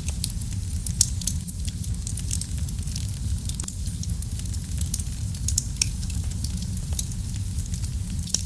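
Wood fire burning in a fireplace: a steady low rumble of flame with frequent small crackles and pops, one sharper pop about a second in.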